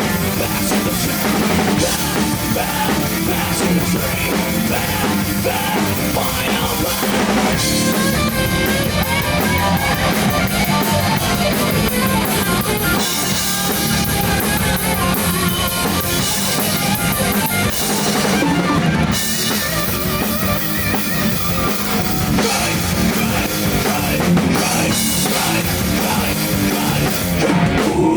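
Rock band playing: a full drum kit keeping a steady beat under electric guitar, loud and unbroken.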